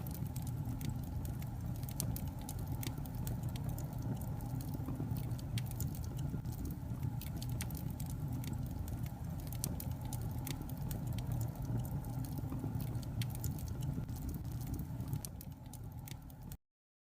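Logs burning in a fireplace: a steady low rumble of flames with frequent sharp crackles and pops. The sound dips slightly, then cuts off abruptly near the end.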